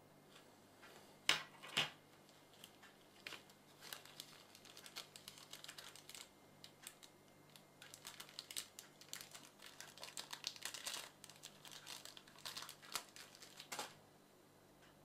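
Irregular light clicking and crinkling of small objects being handled. Two sharper clicks come about a second and a half in, followed by a dense run of small clicks that stops near the end.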